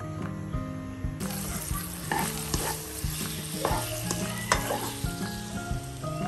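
Cubed ham, bacon and sliced garlic sizzling as they fry in a nonstick pan, with a utensil clicking and scraping against the pan as it is stirred. The sizzle starts about a second in.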